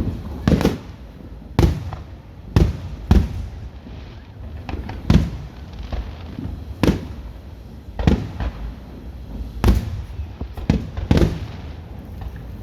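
Fireworks shells bursting in the sky, a string of about ten loud bangs roughly a second apart, each with a brief echoing tail.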